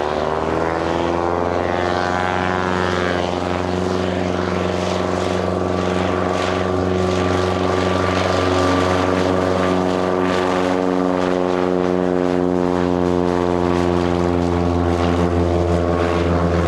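Piper PA-28R Arrow's piston engine and propeller going to takeoff power: the engine note rises over the first couple of seconds, then holds steady and loud as the plane rolls and climbs.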